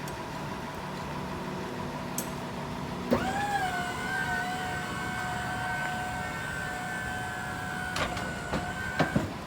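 A small electric motor whines steadily under a low hum: it spins up with a quick rise about three seconds in, holds an even pitch, and stops near the end, with a couple of sharp clicks just before it cuts off.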